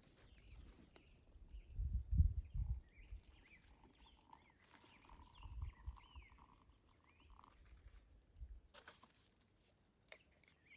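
Birds chirping in the background, in short rising and falling calls, with low thumps about two seconds in and again near the middle, and a short rustle near the end.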